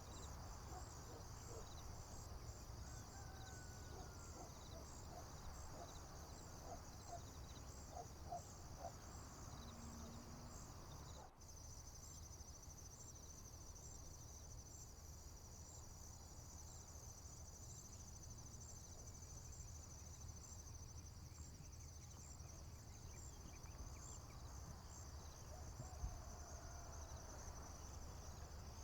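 Faint, steady high-pitched trilling of crickets in a summer field, with a few short bird calls in the first ten seconds and again near the end. The sound briefly drops out about eleven seconds in.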